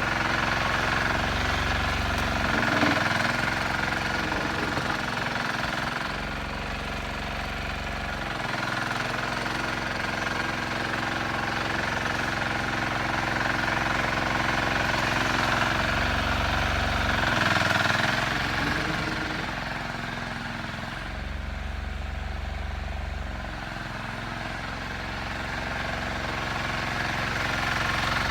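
Sears 8XL garden tractor engine running steadily while plowing snow, its sound swelling and easing slowly, loudest about three seconds in and again past the middle.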